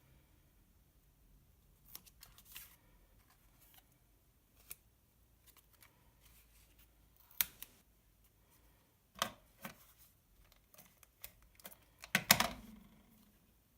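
Scattered light clicks, taps and rustles of paper-craft supplies being handled, with a few sharper clicks and the loudest one near the end.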